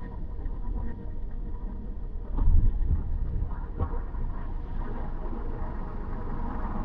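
Car driving on city streets: a steady low rumble of engine and tyre noise, with a louder low surge about two and a half seconds in.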